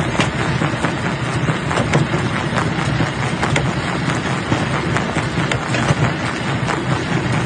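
Jaw crusher running, rocks cracking and clattering in a dense, irregular stream of sharp knocks over a steady mechanical rumble as the stone is broken up.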